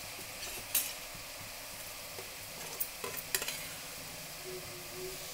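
Tamarind paste with peanuts, curry leaves and dried red chillies sizzling steadily in a steel pan as a flat steel spatula stirs it. There are a few short scrapes of the spatula on the pan, about a second in and around three seconds in.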